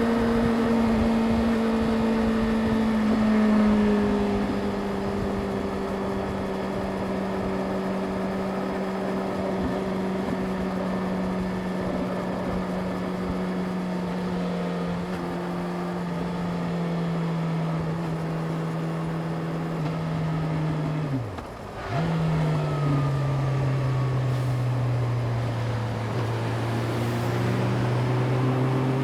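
Yamaha YZF-R6's inline-four engine running at a steady cruise, its note slowly sinking in pitch. About 21 seconds in the sound dips briefly for a gear change and comes back at a lower note, then the pitch starts rising again near the end as the bike picks up speed.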